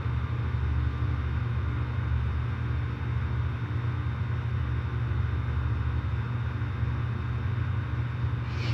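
Outdoor air-conditioner condensing units running: a steady low hum from the compressors and fans with a faint high steady whine. A brief scraping noise comes near the end.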